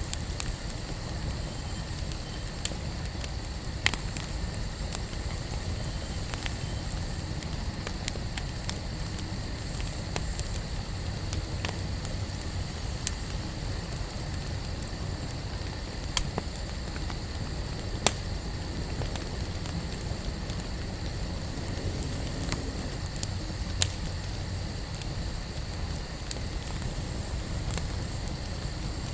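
Wood campfire burning: a steady low rumble with scattered small crackles and a handful of sharper, louder pops.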